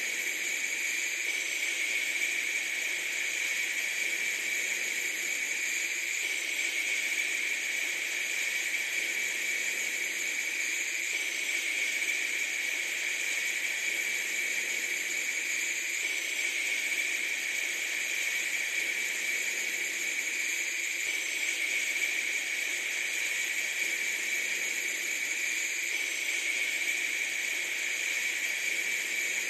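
Steady hissing noise, even and unchanging in level, with no distinct events.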